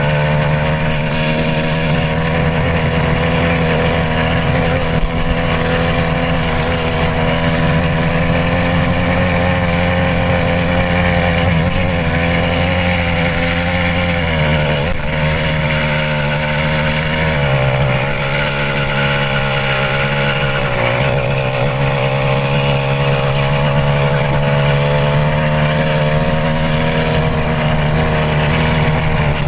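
Stock 66cc two-stroke motorized-bicycle engine running at full throttle under steady load. Its note dips briefly about halfway through, then settles a little lower.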